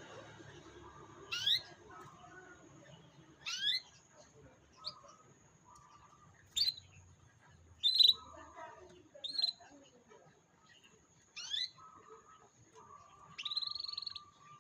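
Canary giving short, sharp, falling chirps one to two seconds apart, about eight in all, then one longer held note near the end.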